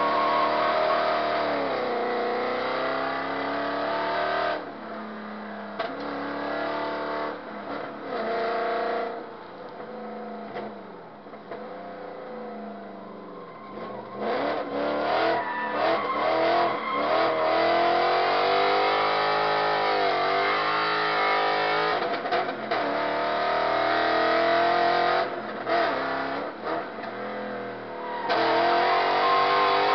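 Drift car's engine heard from inside the cabin, revving hard with repeated rises and falls in pitch as it is driven through a session. The engine drops back and runs quieter for several seconds early on, then climbs to full revs again from about halfway, and is at its loudest near the end.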